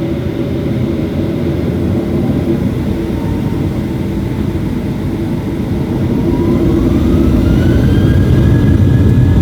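Jet airliner engines heard from inside the cabin: a steady low rumble that grows louder, with a whine rising in pitch about six seconds in as the engines spool up.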